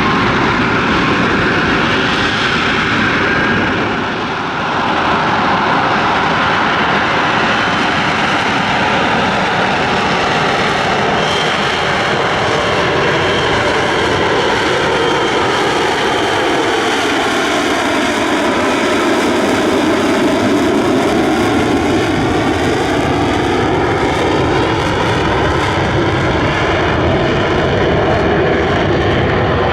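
Jet aircraft engine running loud and steady during a flying display. Its pitch slides down and climbs back up about two-thirds of the way through as the aircraft moves relative to the listener.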